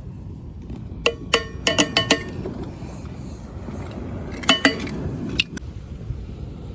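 Camp cookware clinking: a cluster of sharp ringing clinks in the first couple of seconds and another near the end, over a steady low rumble.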